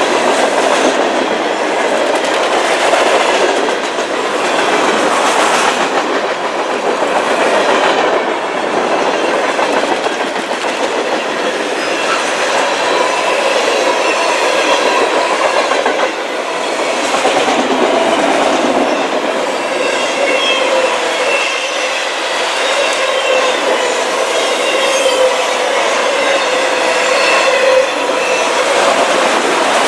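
A long freight train of boxcars, tank cars and autoracks rolling past at trackside: a steady rumble with the wheels clacking rhythmically over the rail joints. Thin wheel-squeal tones come in during the second half.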